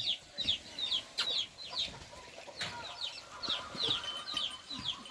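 Chicks peeping: a steady run of short, high, falling peeps, about three a second, with a brief pause around two seconds in. A few faint knocks sound among them.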